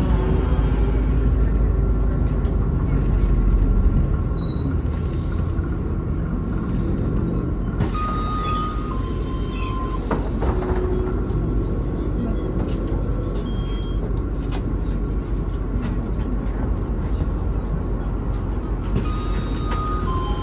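A MAZ-216 bus running along the road, heard from inside the cabin as a steady engine and road rumble. A short two-note electronic beep, the higher note first, sounds twice: about eight seconds in and again near the end.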